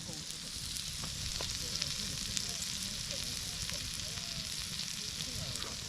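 Food frying in a pan: a steady sizzle with scattered small pops and spits.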